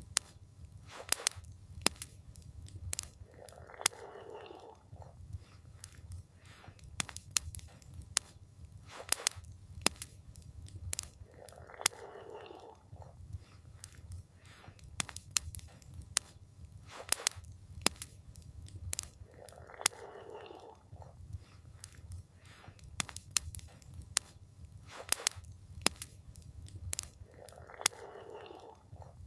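Campfire crackling: sharp, irregular snaps and pops over a low steady rumble, with a short soft rush of sound recurring about every eight seconds.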